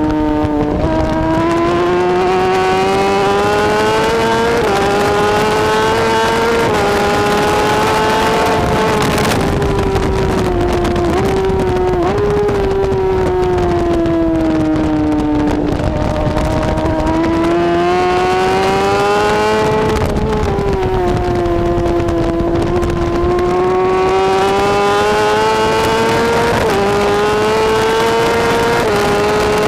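BMW S1000RR superbike's inline-four engine at racing speed. The revs climb through the gears with a sharp dip at each upshift, fall away twice as the bike slows for corners, then pull hard again. Wind and road noise run beneath.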